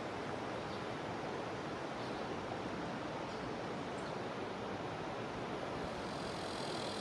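Jungle river flowing: a steady rushing of water. A few faint, brief high chirps sound over it, and near the end a steady high buzz of cicadas sets in.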